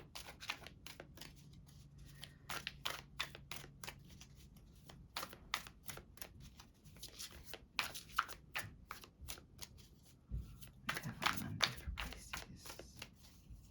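A tarot deck being shuffled by hand: a long, uneven run of soft card clicks and riffles, a little louder near the end.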